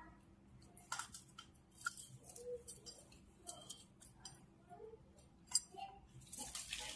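A parrot bathing, splashing water in irregular short bursts, the loudest about five and a half seconds in and a busier run of splashes near the end, with a few soft short calls in between.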